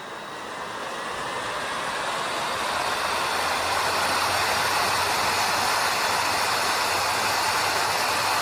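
Steady rushing hiss that fades up over the first three seconds and then holds level, with a low hum joining it about three and a half seconds in.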